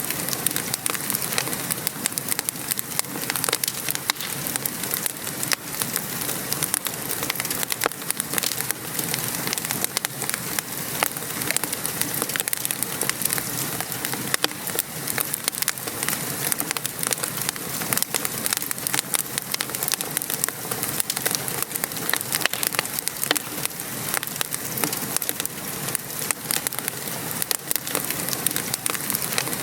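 Steady rain pattering mixed with a wood fire crackling: an even hiss thick with sharp pops and clicks.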